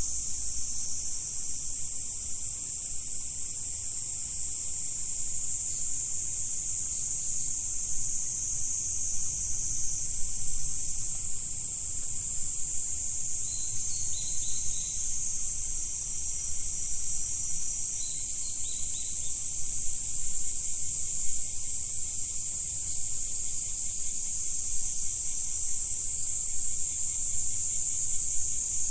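Steady high-pitched chorus of insects trilling without a break. Twice, about midway and a few seconds later, a bird gives a faint short run of chirps.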